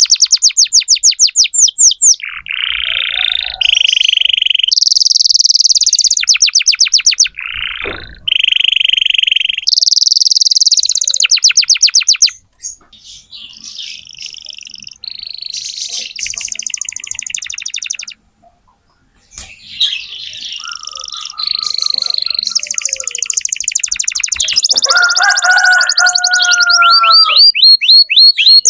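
Canary singing a long, varied song of rapid high trills and rolls that switch phrase every second or two, with a brief pause about eighteen seconds in. Near the end there is a lower note.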